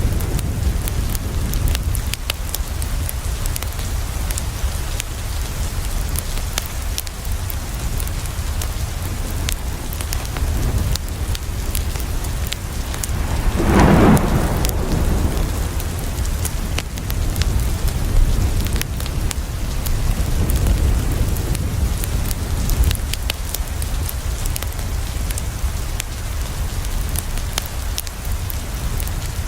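Steady rain falling on a window with a constant low rumble, broken by scattered sharp ticks. Thunder swells and fades away about fourteen seconds in.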